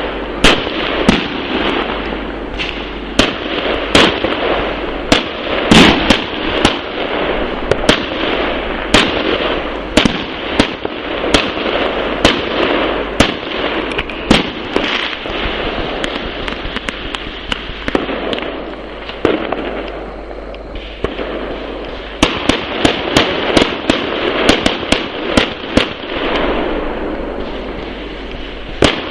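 New Year fireworks going off all around: frequent sharp bangs and cracks over a continuous crackling rumble of many launches at once. The bangs thin out a little past the middle, then come thick again.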